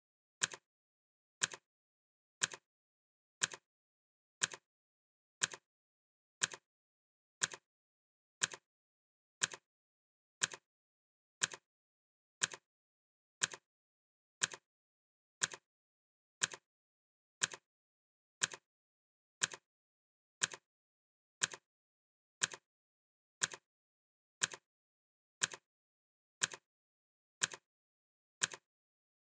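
Clock ticking sound effect: one sharp tick a second, each a click followed closely by a softer one, with silence in between.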